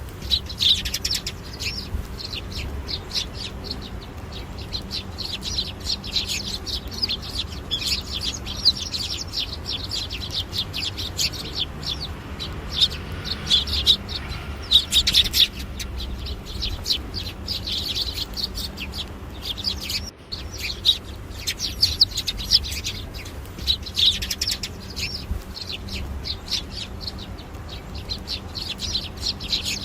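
Birds chirping continuously, many rapid high-pitched chirps overlapping, over a low steady hum.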